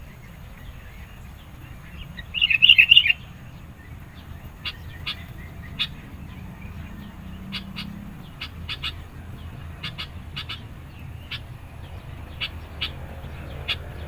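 Sooty-headed bulbul (kutilang) calling: a loud burst of rapid chattering notes about two seconds in, then short sharp chips scattered through the rest, the persistent, rival-challenging calling used as a trapping lure.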